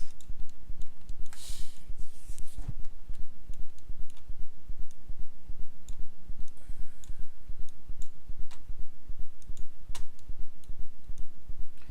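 Scattered, irregular clicks of a computer mouse and keyboard, over a steady low electrical hum.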